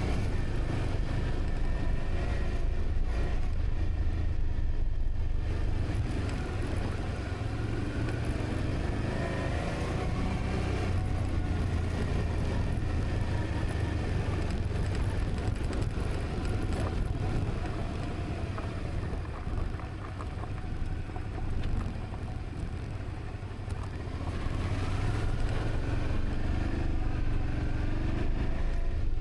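A motor vehicle's engine running while under way, with a steady low rumble and the engine note slowly rising and falling.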